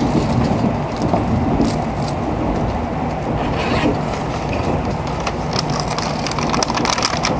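Inside a Shinkansen bullet train at speed: a steady low rumble of the running train, with scattered light clicks and rattles.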